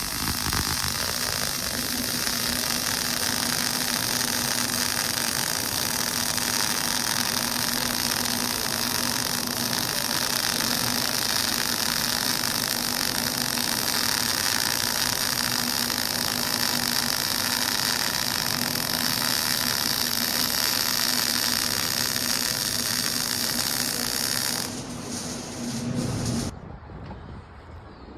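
Steady vehicle noise: an even hiss with a constant low hum, dropping away near the end.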